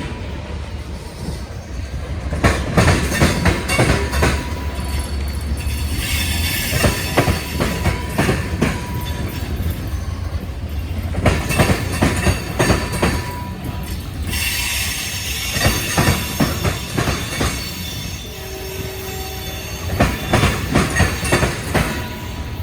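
Freight train rolling past: steel wheels clicking over rail joints in an uneven rhythm over a steady low rumble, with stretches of high-pitched wheel squeal.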